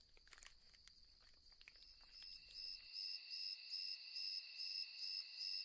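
Crickets chirping in a high, even pulsing trill, with a second, lower steady trill joining about two seconds in and growing louder. A few faint clicks sound in the first two seconds.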